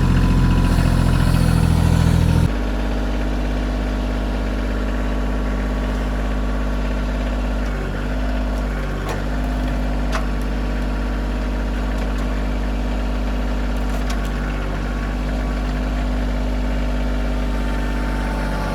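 Kioti CK2620 compact tractor's three-cylinder diesel engine running steadily. It drops abruptly to a quieter, steady level about two and a half seconds in.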